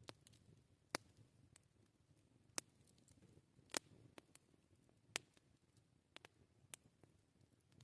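Wood campfire crackling: sparse, sharp pops at irregular intervals over a faint low rumble.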